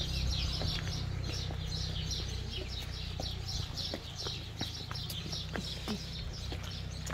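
A bird chirping in a regular run of short, high notes, about three a second, over a steady low rumble, with scattered light clicks.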